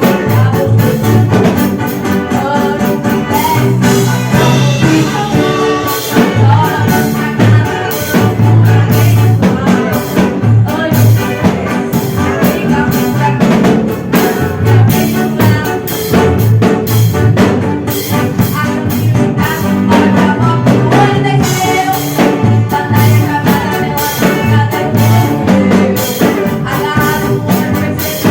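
Band music with drum kit and bass guitar, with a strong, busy bass line and steady drumming throughout.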